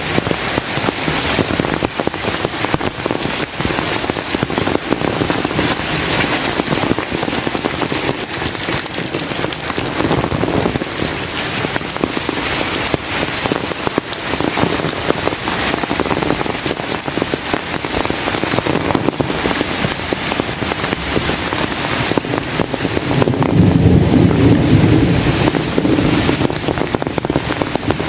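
Heavy rain falling steadily, a dense hiss with many fine drop impacts. Near the end a low rumble of thunder swells for a few seconds and fades.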